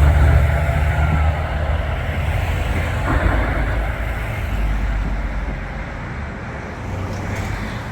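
Road traffic with a heavy vehicle's low engine rumble and tyre noise, loudest at first and fading away over several seconds.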